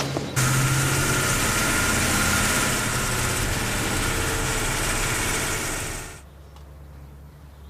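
Police car driving, with a steady loud engine and road noise. It cuts off abruptly about six seconds in, leaving a quieter low hum.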